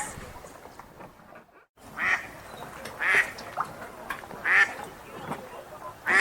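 Wild ducks quacking: a series of short, loud quacks about one every second or so over a faint background hiss, broken by a brief drop to silence about a second and a half in.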